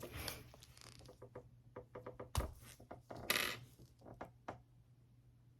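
Light clicks and ticks of a plastic insulin syringe and glass insulin vial being handled, with one sharper click about two and a half seconds in and a short scrape just after.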